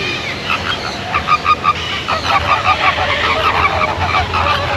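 A flock of flamingos honking, with many short goose-like calls overlapping in a steady chatter from about half a second in.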